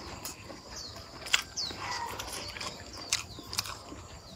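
Close-miked chewing of a mouthful of noodles: soft wet mouth sounds with a few sharp clicks, the sharpest about a third of the way in. Two short, high, falling chirps sound faintly behind the chewing.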